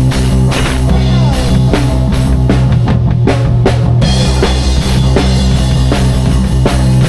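Live band jamming: drum kit keeping a steady beat under sustained guitar and bass notes, in a rock style.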